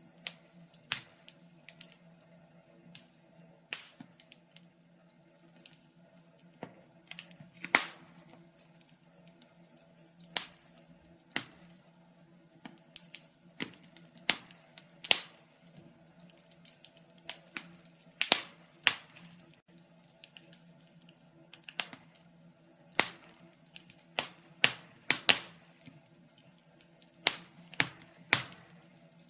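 Wood fire crackling in a fireplace: irregular sharp pops and snaps, a few of them loud, over a faint steady low hum.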